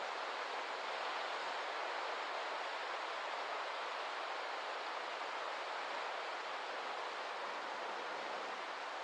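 A steady, even rushing noise from natural surroundings, without breaks, rhythm or deep rumble.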